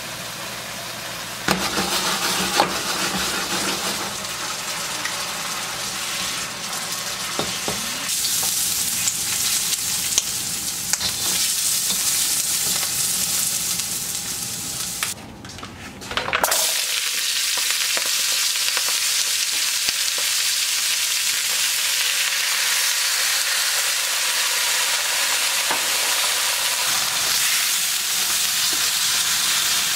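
Vegetables sizzling and frying in a hot wok, with scrapes from a spatula stirring them. Partway through the sizzle drops out briefly, then returns steadier and a little louder.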